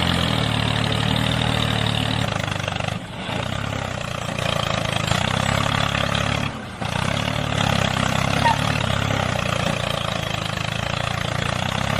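Engine-like motor noise running steadily, with two brief dips, about three seconds in and near seven seconds.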